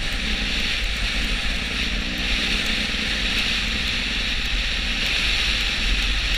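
Steady wind and road noise from a moving vehicle at speed, over a constant low engine rumble.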